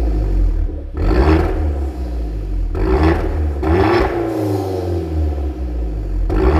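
Hyundai Genesis Coupe engine through a custom variable exhaust with a straight-through resonator, revved in about four short throttle blips, each rising quickly and falling back to idle.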